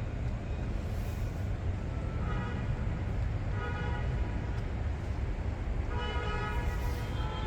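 Steady low rumble of city traffic with several short horn toots, each held for under a second.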